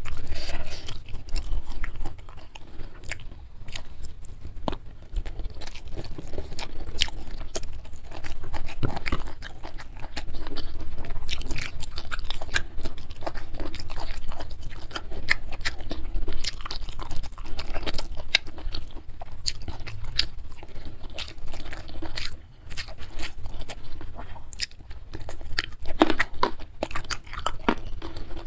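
Close-up chewing and crunching of a mouthful of rice, spicy beef and raw crunchy vegetables such as petai, young jengkol and pea eggplants, with many irregular sharp crunches and wet mouth sounds.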